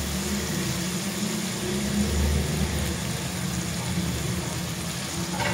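Grated onion frying in oil in an aluminium wok, a steady sizzle over a low steady hum.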